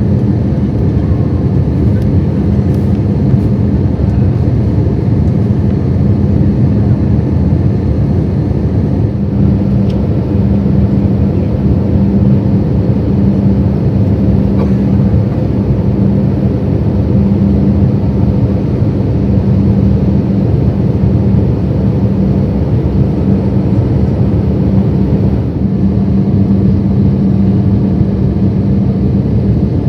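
Steady cabin noise inside an Airbus A320 on descent: a loud low rumble of engines and airflow with a steady hum underneath.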